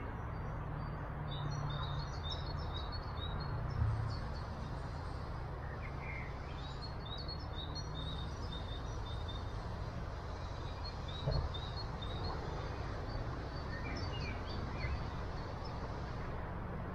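Small songbirds chirping in quick runs of short, high notes that come and go, over a steady outdoor background noise. A single soft knock comes about eleven seconds in.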